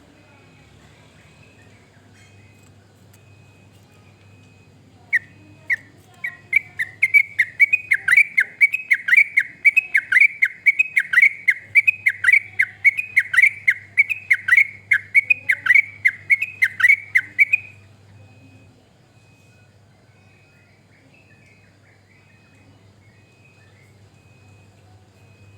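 Yellow-vented bulbul (trucukan) singing a long, rapid run of repeated bubbling notes, about three a second. It starts about five seconds in and stops abruptly near eighteen seconds.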